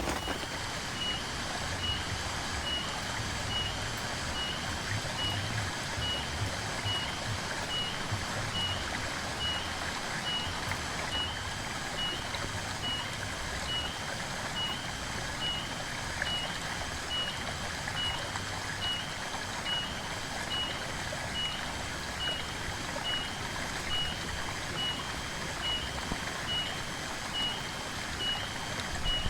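Steady rain noise with a short, high-pitched chirp repeating evenly, a little more than once a second, and a faint low rumble in the first half.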